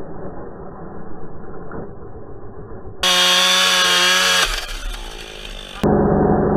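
Chainsaw engine: about three seconds in, the saw runs clear and steady at full throttle for about a second and a half, then the throttle drops and it slows. Before and after, a muffled engine runs.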